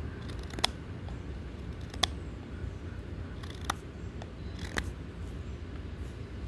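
Pocketknife blade cutting and shaving a wooden stick, with about four sharp snicks a second or more apart.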